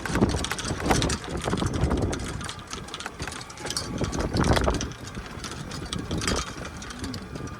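An engine running, with irregular rattles and knocks over a steady low rumble.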